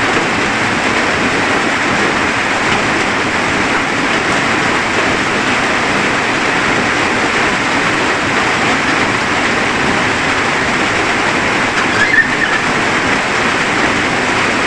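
Heavy rain falling steadily, an even dense hiss, with a brief higher-pitched sound about twelve seconds in.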